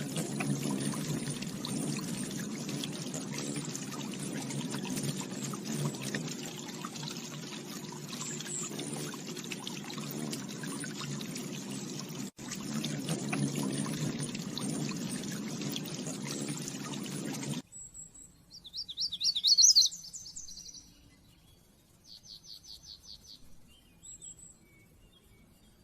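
Steady rush of running water for most of the first seventeen seconds, cutting off abruptly. A small bird then calls in short, rapid trills and chirps, the loudest trill about two seconds after the water stops.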